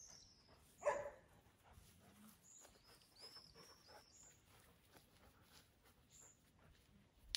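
A dog gives one short bark about a second in, against faint bird chirps.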